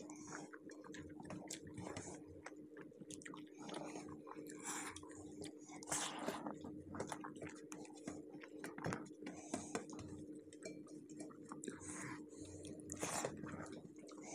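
Chewing and mouth sounds of people eating rice and curry by hand, with soft wet squishing and light clicks as fingers mix rice on steel plates, over a steady low hum.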